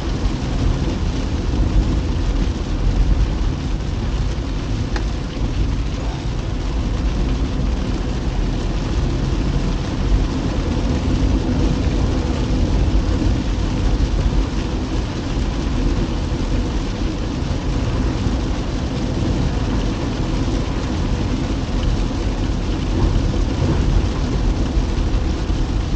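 Steady rumble of a car on the move, heard inside the cabin: engine and tyre noise, with rain on the car.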